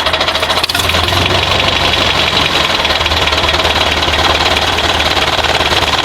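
A toy vehicle's small motor and gears running steadily with a rapid buzzing rattle, with one brief click about a second in.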